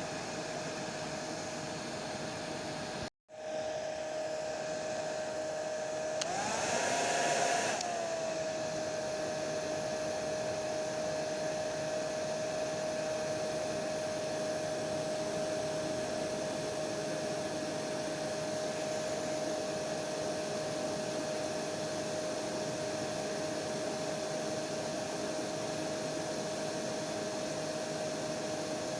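Electric hair dryer running steadily: a constant airy whir with a steady hum tone. It cuts out for an instant about three seconds in, and a few seconds later it swells louder and slightly higher for about two seconds before settling back.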